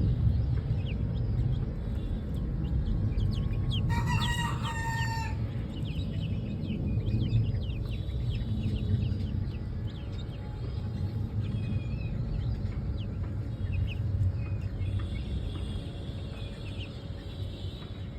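A rooster crows once about four seconds in, a single pitched call lasting just over a second. Quick high chirps come and go throughout over a steady low rumble.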